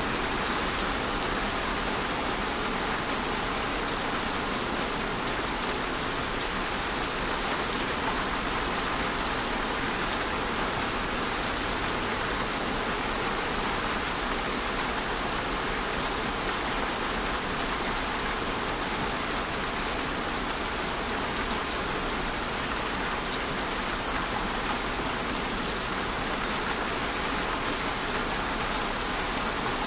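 Steady rainfall: an even hiss of rain falling on a surface, with fine drop patter throughout.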